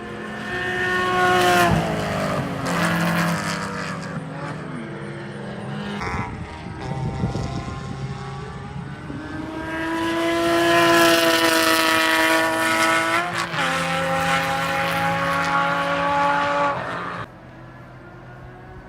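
Porsche Cayman S Interseries racecar's flat-six engine running hard on track. The engine note climbs and falls several times with gear changes, then drops off sharply near the end.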